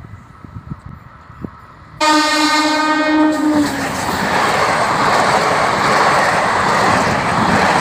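An Indore–Ratlam DEMU (diesel-electric multiple unit) train sounds its horn about two seconds in, a loud blast of a second and a half whose pitch drops at the end. Then its coaches rush past at speed with a loud, steady rumble and clatter of wheels on rails.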